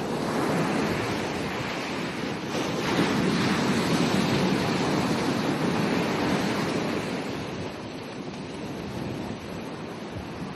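Ocean surf washing onto a beach: a wave swells and breaks about three seconds in, stays loud for a few seconds, then recedes into a softer wash.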